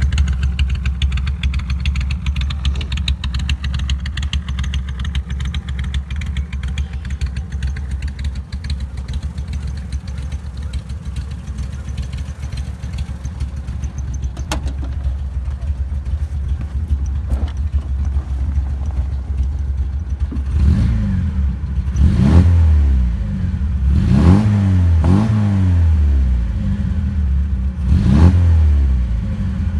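1967 Triumph Spitfire MkII's 1147 cc four-cylinder engine idling steadily, then revved in about five quick blips during the last ten seconds, each rising in pitch and falling back to idle.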